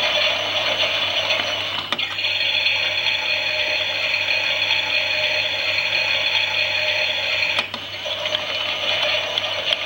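Toy Klein Miele washing machine running, its small motor and gears turning the drum with a plastic rattle. A click about two seconds in changes it to a steadier whine; another click near the end brings the rattling back.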